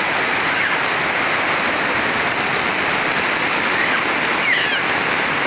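Heavy rain pouring down steadily onto paving, a loud, even hiss of water.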